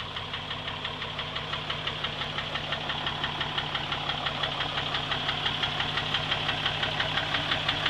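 A large vehicle or heavy machine engine running steadily with an even, rapid throb, growing slowly louder.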